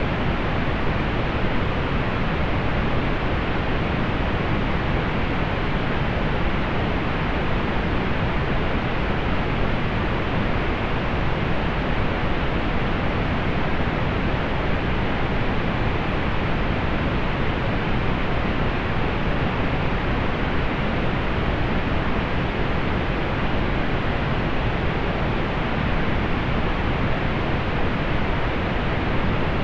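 Steady pink noise: an even, unchanging hiss, dull in the highs, with no change or break.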